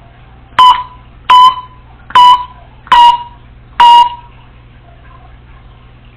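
Congo African grey parrot giving five loud, short, beep-like calls, each a sharp-edged tone, spaced about three-quarters of a second apart.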